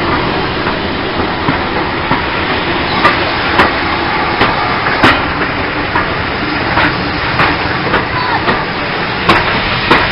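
Railway coaches rolling past close by: a steady rumble with sharp wheel clicks over the rail joints at uneven intervals, the loudest about halfway through.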